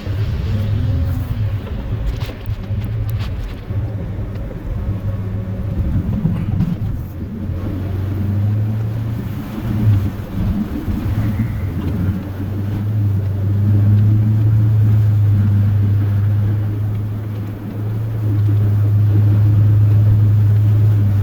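Chevrolet plow truck's 8.1-litre Vortec big-block V8 running under load, a steady low drone that gets louder and holds steadier about halfway through.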